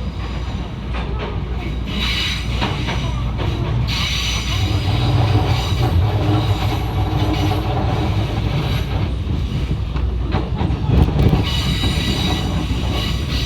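Electric passenger train running, heard from inside a car: a steady low rumble of wheels on rails, with stretches of high wheel squeal about two seconds in, from about four to eight seconds, and again near the end.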